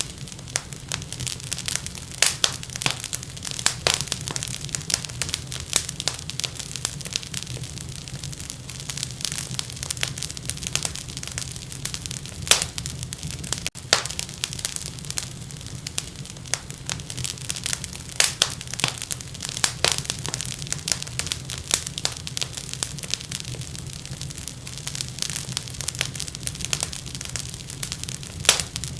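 Wood fire in a fireplace crackling steadily, with frequent irregular sharp pops over a low steady rumble. There is a split-second gap about halfway through.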